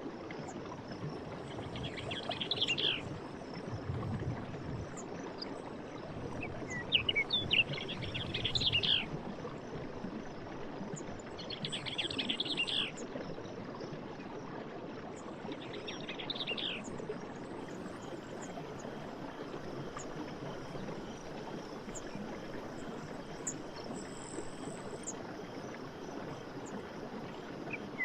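A stream running with a steady rush, while a songbird sings short, quick phrases about every four to five seconds.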